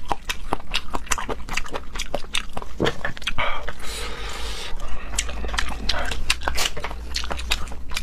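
Close-miked wet chewing and mouth smacking while eating seafood, a quick run of moist clicks, with a longer slurp about halfway through.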